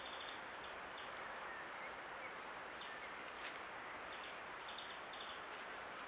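Faint, short high bird chirps, singly and in quick little runs, over a steady background hiss.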